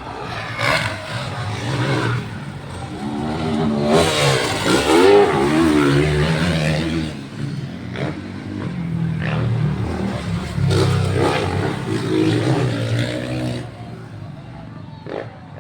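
Motocross dirt bike engines revving as the bikes ride the track, the pitch rising and falling with the throttle. The engines are loudest about four to seven seconds in, and again around ten to thirteen seconds in.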